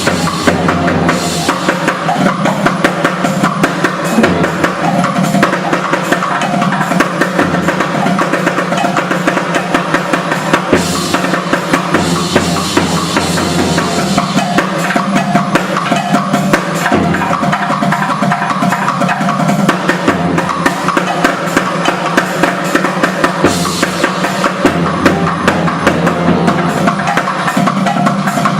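A live band playing music driven by a drum kit, with a steady, busy beat over sustained pitched instruments.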